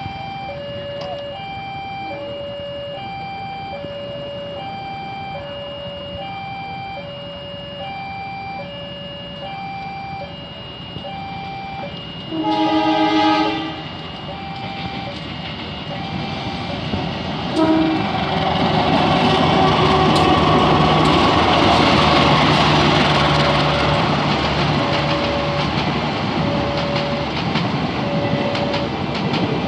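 Level-crossing alarm sounding an alternating two-tone ding-dong about once a second, while a CC203 diesel-electric locomotive hauling a passenger train approaches. The locomotive's horn blows once for about a second near the middle, then the train passes loudly, wheels clacking over the rail joints.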